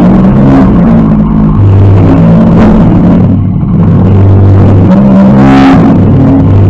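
Demolition derby car's engine heard loud from inside the stripped cab, revving up and down as the car drives and shoves into another car. A sharp bang about two and a half seconds in, and another about five and a half seconds in as the revs climb.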